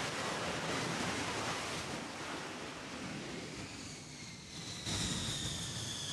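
Steady wind and sea noise. About five seconds in, a jet engine's high whine cuts in and falls slowly in pitch.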